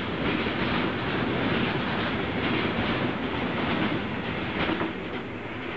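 Freight train carrying semi-trailers on its wagons rolling past at speed, its wheels clattering over the rail joints. The noise eases off a little near the end as the last wagon goes by.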